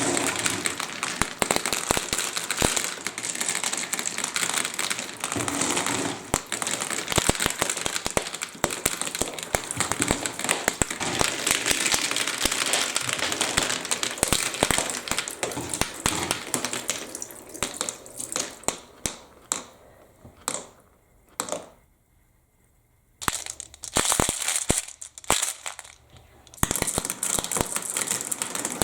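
Marbles clattering down a plastic building-block marble run with water running through it: a dense crackle of many small clicks and splashing. About two-thirds through it thins to scattered clicks and goes nearly quiet for a moment, then the clatter starts up again.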